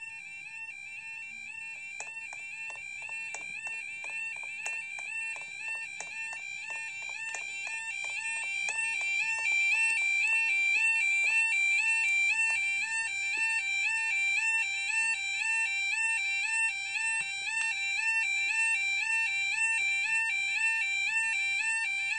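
Level crossing warning alarm sounding continuously: a two-tone warbling tone that steps back and forth and grows louder after several seconds. Rapid, regular clicking runs alongside it for the first several seconds.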